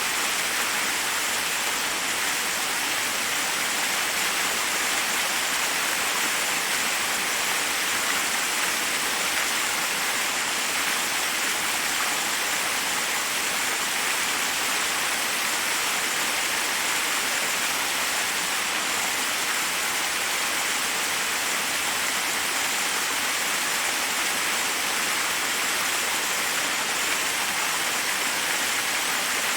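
Forest waterfall rushing steadily: an even hiss of falling water with little low rumble.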